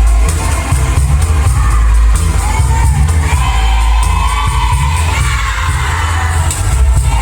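Choir singing a melody over a loud backing track with a heavy, pulsing bass.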